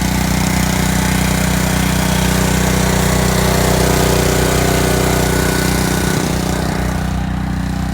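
Small engine of a residential pressure washer running steadily, with the hiss of water spraying from the wand that stops near the end.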